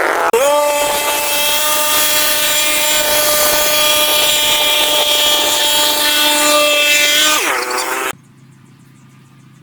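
A power tool's motor speeds up, runs at a steady high pitch for about seven seconds, then winds down with a falling whine. It cuts off abruptly to a faint low hum near the end.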